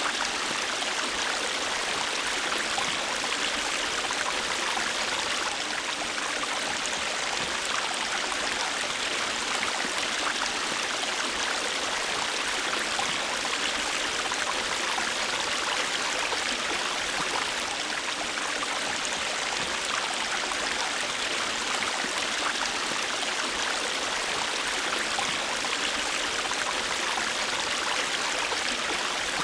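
River water flowing over rocks in a steady rushing splash, without a break.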